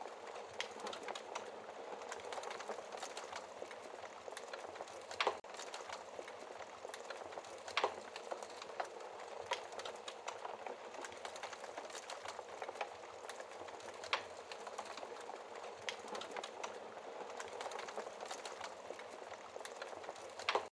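Wood fire crackling in a fireplace: a steady hiss of burning logs with constant small crackles and a few louder pops.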